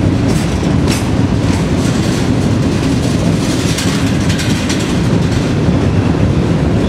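A heavy freight train's cars rolling slowly past at close range inside a rail tunnel. A loud, steady rumble of wheels on rail, with a few sharper clanks about a second in and again around the middle.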